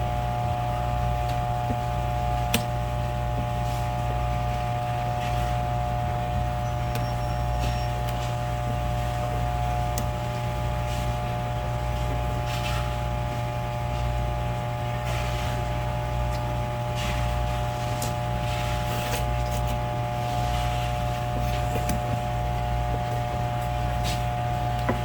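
Steady mechanical hum with a few constant tones and a pulsing low rumble, with scattered light clicks and taps from knife work on a cutting board.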